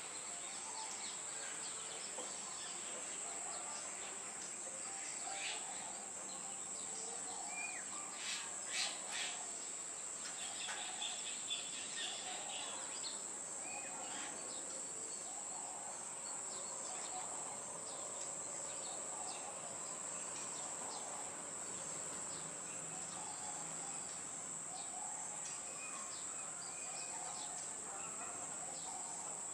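Steady high-pitched drone of insects, with a handful of short bird chirps about a third of the way in, three of them louder than the rest.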